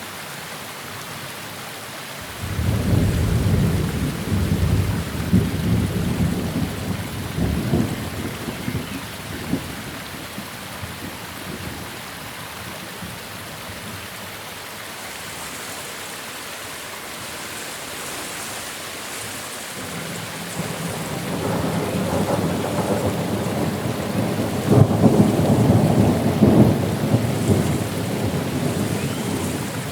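Steady heavy rain hissing, with thunder rolling twice: a long low rumble starting a couple of seconds in and fading by about ten seconds, and a second, louder one building from about twenty seconds in and running on to the end.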